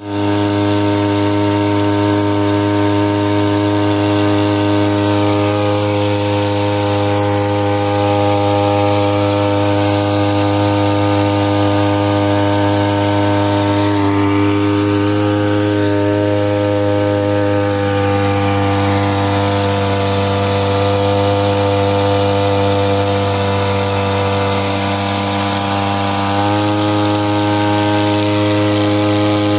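Petrol brush-cutter (grass trimmer) engine rigged as a boat outboard, running steadily at speed with a constant buzzing drone while driving the boat. It eases off slightly near the end, then picks back up.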